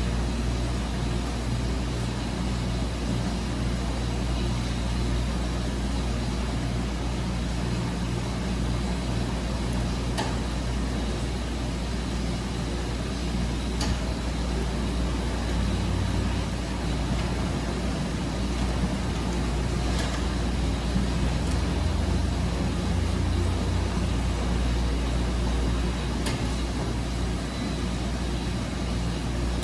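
Wascomat Senior W125 35-pound commercial washing machine running mid-cycle: a steady low motor hum, with a few faint clicks.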